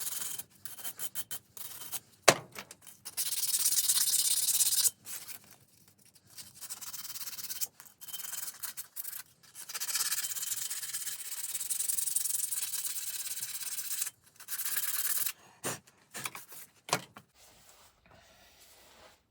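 Hand sanding or rubbing a metal part with abrasive, in long runs of scratchy strokes, with a sharp knock about two seconds in and two more knocks near the end.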